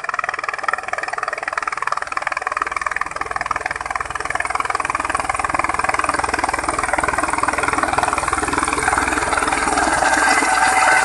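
Helicopter running, a steady engine and rotor noise with a fast, even flutter that grows a little louder toward the end.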